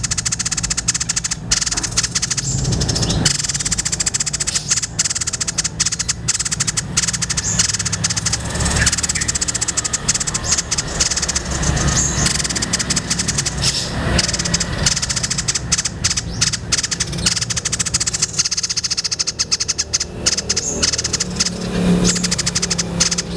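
Tepus dada putih (white-breasted babbler) song played as a training recording: a long, unbroken run of rapid chattering, clicking notes, over a steady low hum.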